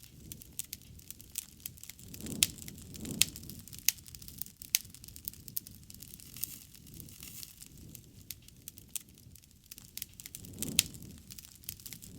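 Wood fire crackling, with irregular sharp pops and snaps over a low rumble of flame that swells a few times.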